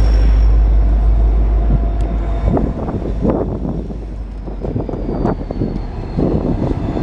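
A train passing close by. A heavy low rumble fades after about two and a half seconds, then the passing cars make irregular rattling and clatter, with a faint high tone slowly falling in pitch.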